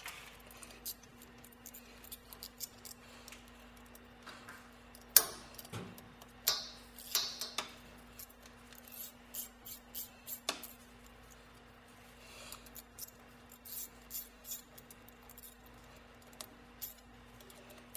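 Scattered metal clinks and knocks of hand tools working on a steam trap's fittings, with one sharp clank about five seconds in, over a steady low hum.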